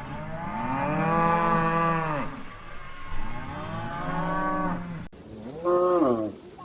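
Cattle mooing: three calls, two long moos followed by a shorter, higher-pitched one near the end, each dropping in pitch as it ends.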